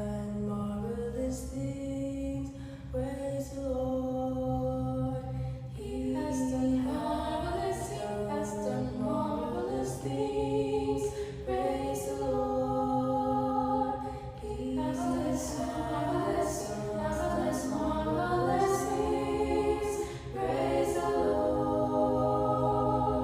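A group of voices singing a cappella vocal warm-up exercises: held, stepping and gliding sung notes in phrases a few seconds long, each followed by a short breath break.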